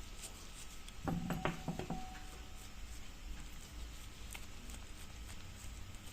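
A brief cluster of light knocks and clicks about a second in, one of them ringing briefly, over a faint low hum.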